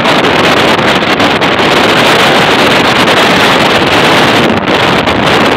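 Loud, steady wind rush on a microphone held at an open window of a moving passenger train, mixed with the train's running noise.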